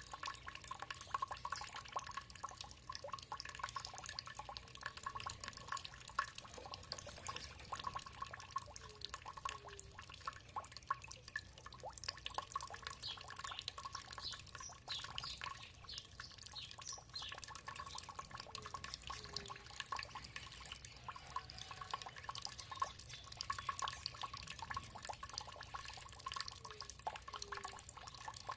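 Water trickling and dripping steadily, with birds calling over it. A run of quick falling high calls comes in the middle, and a pair of short low notes returns about every nine seconds.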